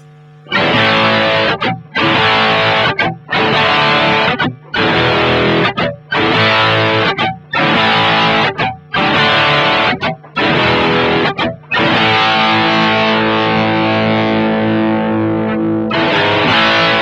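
Distorted electric guitar through a Two Notes Le Crunch tube preamp pedal boosted by an Ibanez Tube Screamer Mini, playing chords in short choppy stabs with brief stops between them, then one long ringing chord near the end and a last short stab.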